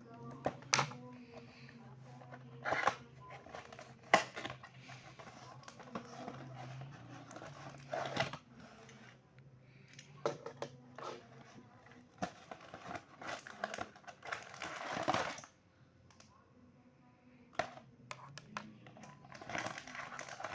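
Beyblade toy packaging crinkling and rustling as it is opened and handled, with sharp clicks scattered through.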